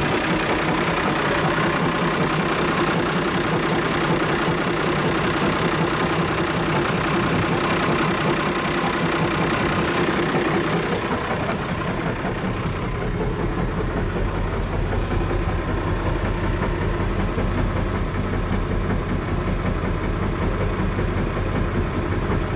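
Yamaha UF33 cruiser's inboard diesel engine idling steadily. About halfway through, the sound turns lower and duller, with a steady low hum in place of the brighter clatter.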